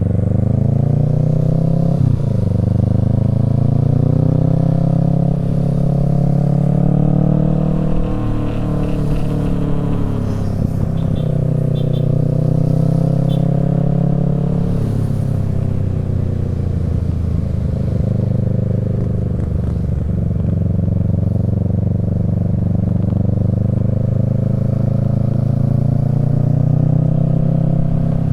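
Kawasaki Z650's parallel-twin engine through a Yoshimura Alpha exhaust, running under way with its pitch rising and falling slowly as the throttle opens and closes. There is a brief sharp dip in pitch about two seconds in, like a gear change.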